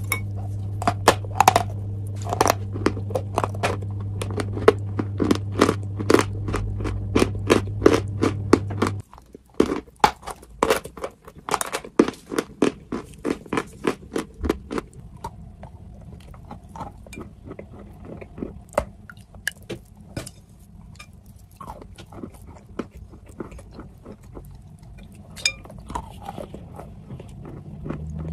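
A person chewing a mouthful of chalk close to the microphone: rapid, sharp crunches several a second that thin out to slower, softer crunches after about fifteen seconds. A low steady hum underneath cuts off suddenly about nine seconds in.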